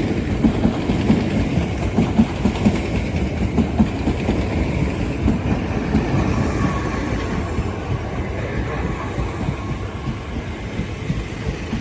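Class 465 Networker electric multiple unit pulling into the platform and slowing, its wheels clicking in a steady rhythm over the rail joints. The rumble and clicks ease toward the end, with a faint thin whine through the middle.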